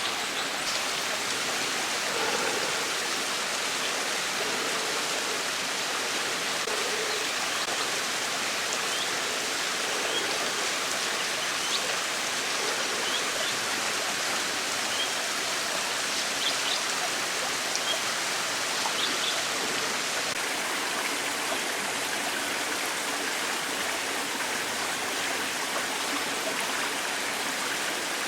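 Low-flowing waterfall and stream in the dry season: a steady, even rush of running water.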